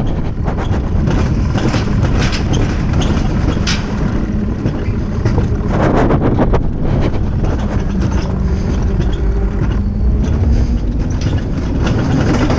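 Loud, steady low rumble of a moving vehicle, with frequent small rattles and clicks throughout.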